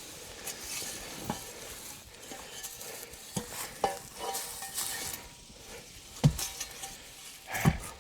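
Crackling rustle of debris being disturbed, with scattered light metallic clinks and two dull knocks near the end.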